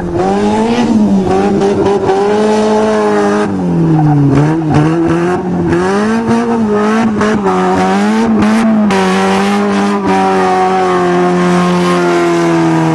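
Four-cylinder engine of a rear-wheel-drive Toyota (4A-GE) revving hard, its pitch rising and falling over and over as the car slides in circles on dirt, with scattered crackles in the middle. About ten seconds in, the revs settle to a steadier pitch.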